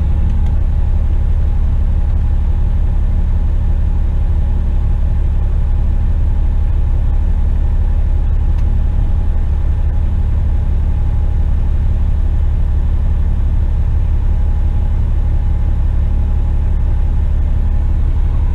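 Western Star tipper truck's diesel engine and drivetrain running steadily while the empty truck drives, a constant deep rumble heard from the driver's cab, with a faint steady whine above it.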